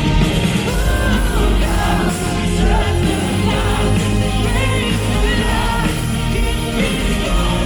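Symphonic metal band playing live, a lead singer's voice carried over the full band.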